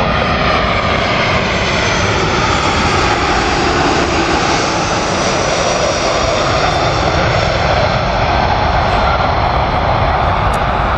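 Jet airliner's engines running loud and steady as it passes, a dense rush with faint tones slowly sliding in pitch.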